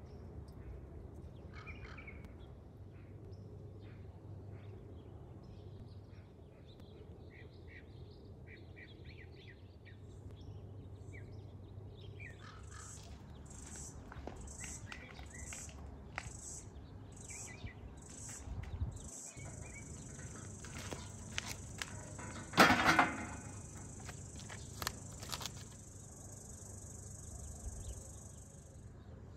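Garden ambience: a bird chirping over and over in a quick even run, then a steady high insect buzz that holds for several seconds and stops near the end. A short loud clatter comes about two-thirds of the way through.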